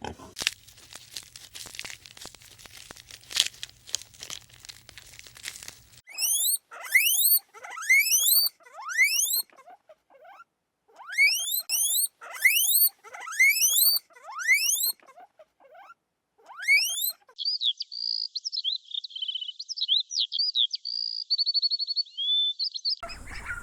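Small animal sounds: about six seconds of crackly crunching, then a long run of loud, rising squeaks about twice a second, then high chirps with a short rapid trill near the end.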